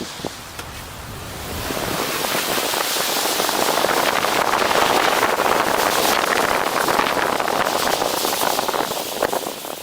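Tyres hissing on a wet, slushy road, swelling up over a couple of seconds, holding, then easing off near the end.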